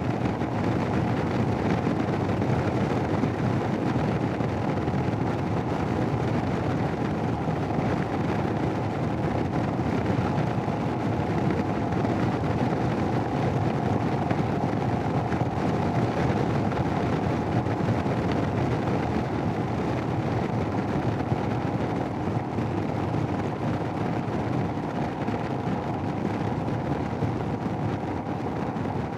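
Steady wind rush on a Sena helmet intercom microphone while riding, with the Royal Enfield Himalayan motorcycle's engine and road noise underneath at a steady pace.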